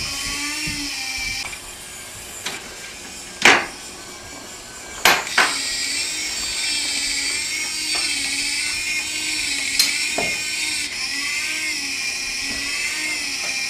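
Small electric motor of a toy train whining steadily as the train runs around the track, its pitch wavering slightly. It goes quieter for a few seconds early on, with a few sharp clicks, then returns to full level.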